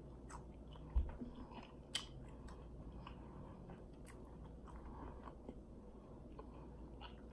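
Faint chewing of a fried egg roll, with scattered soft mouth clicks. There is a short low thump about a second in.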